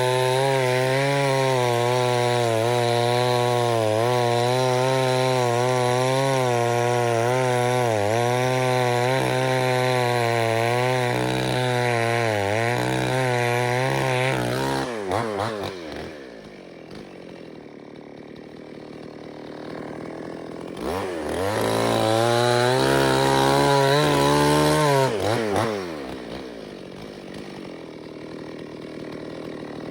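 Chainsaw running at full throttle, its pitch dipping and wavering as it cuts under load. About 15 seconds in it drops back to idle, revs up again for a few seconds about 21 seconds in, then drops to idle once more.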